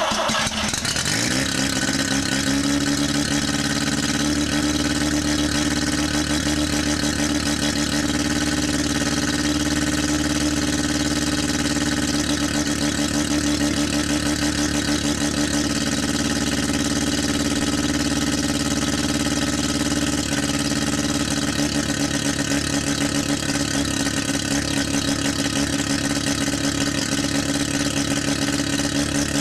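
Mazda RX-7 rotary engine idling steadily just after starting, its pitch settling over the first couple of seconds. The catalytic converter has been removed, leaving a half exhaust that is basically a straight pipe and a little loud.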